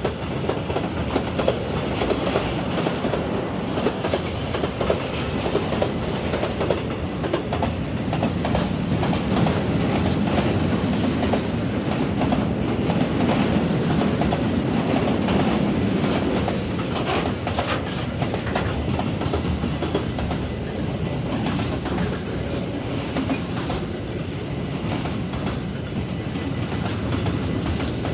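Freight train wagons rolling past close by: a steady rumble of steel wheels on rail, with repeated clacks as the wheels cross rail joints.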